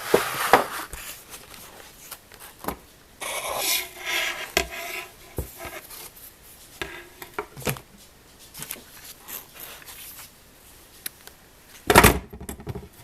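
Scattered clicks, knocks and rubbing as small objects are handled and set down on a workbench, with one louder clunk near the end.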